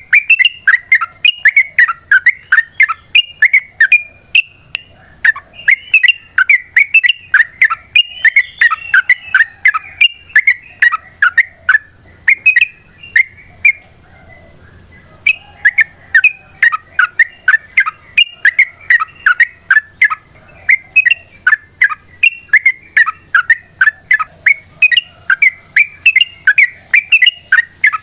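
Yellow-vented bulbul (trucukan) singing in long, rapid runs of bubbly chirps, with a pause of about two seconds midway.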